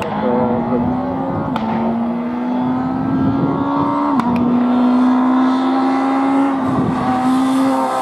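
Hill-climb race car accelerating up through the gears. The engine note climbs, then drops at each upshift, three times, with a sharp crack at the first two shifts.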